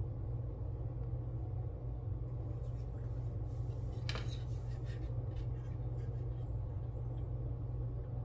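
Steady low hum of room background, with a few small clicks and rustles of small objects being handled at a workbench in the middle, the sharpest click about four seconds in.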